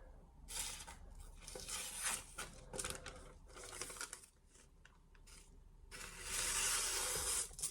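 Freshly sharpened, unstropped santoku blade slicing through a sheet of paper: a few short scratchy cuts, then one longer rasping cut near the end. The edge is toothy.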